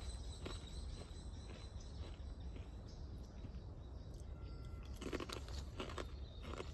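Scattered crunches and rustles, busiest about five seconds in, over a steady low rumble.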